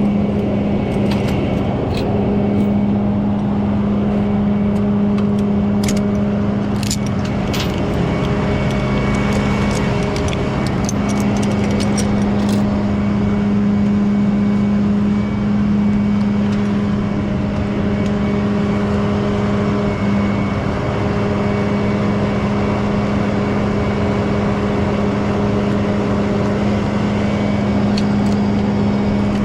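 Rollback tow truck's engine running with a steady drone, with scattered metallic clicks and rattles during the first dozen seconds.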